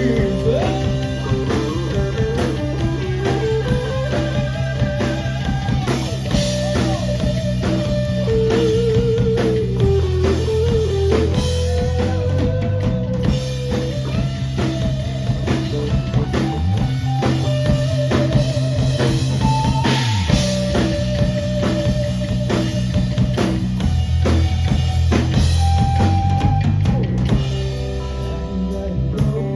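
A live rock band playing: a drum kit keeps a steady beat under held bass notes, while a lead guitar plays a melody with bends and vibrato.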